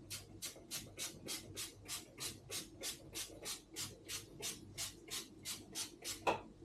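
Hand-pumped spray bottle misting a plant: a quick, even run of short hissing sprays, about three or four a second, with one louder spray near the end.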